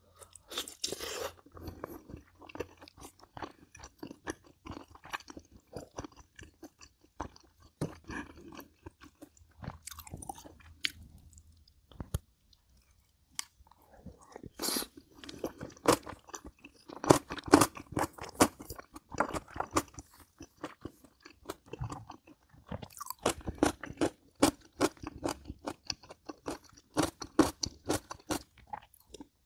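A person chewing food right at the microphone, with crisp crunches and wet chewing, in bouts with a brief pause a little before halfway.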